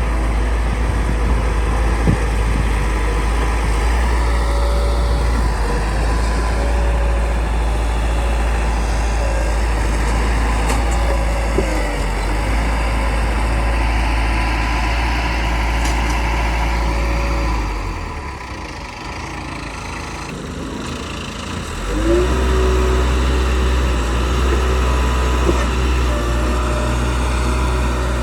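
Bulldozer's diesel engine working under load, a steady heavy drone. About two thirds of the way through it drops back for a few seconds, then revs up again.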